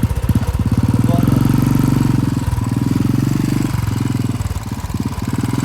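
A vehicle engine starts and runs at idle, an evenly pulsing note that dips briefly a few times.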